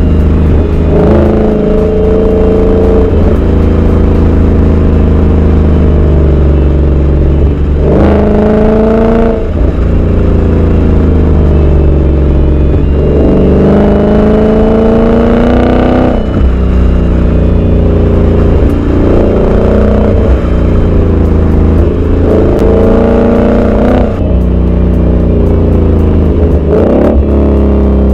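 Ford Mustang V8 running through an X-Force Varax aftermarket exhaust under acceleration. Its note climbs in pitch and drops back several times, as at gear changes, over a steady deep rumble.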